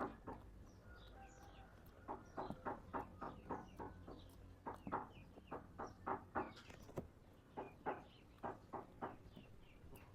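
An animal's short clucking calls, repeated many times in uneven runs with brief pauses between.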